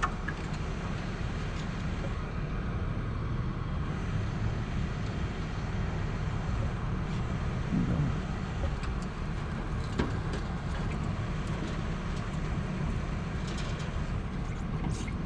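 Steady low engine rumble of a truck-mounted crane running through a lift, with a couple of faint knocks.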